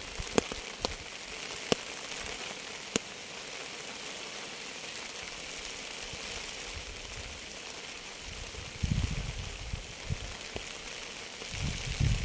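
Steady rain falling, a continuous hiss, with a few sharp ticks of drops in the first three seconds. Low rumbling surges come in about nine seconds in and again near the end.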